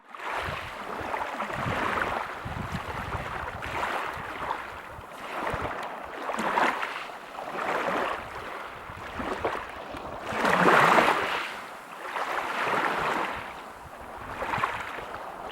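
Ocean surf breaking on a beach: a series of swelling and ebbing washes of noise every second or two, with the loudest wave breaking about ten seconds in.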